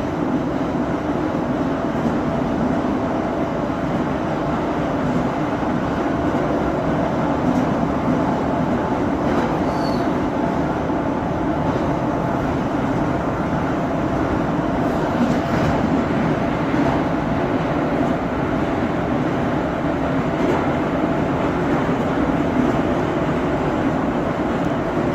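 Moscow Metro 81-717.5M/81-714.5M 'Nomernoy' train running through a tunnel, heard from inside the car: a steady rumble of wheels and running gear with a steady hum in it.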